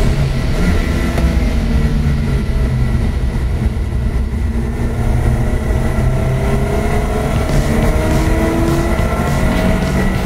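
Lotus Elise engine heard from inside the cabin, accelerating hard out of a corner: its note holds fairly steady at first, then climbs steadily through the second half as the revs rise.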